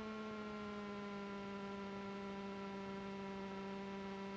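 Steady low drone of a Cessna 310's twin piston engines at taxi power, heard through the cockpit intercom as a hum with several overtones that dips slightly in pitch in the first second.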